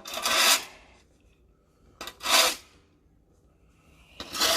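Three rasping crunches in deep snow, each about half a second long and about two seconds apart.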